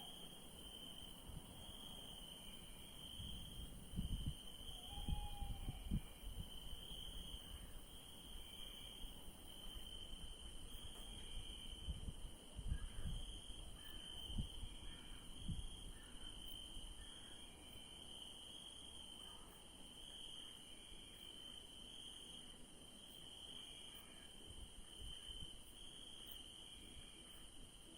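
Night-time field ambience: crickets chirping in a steady pulsing rhythm over a constant high-pitched insect trill. A single short hooting call, likely an owl, comes about five seconds in, and low rumbles of wind come and go.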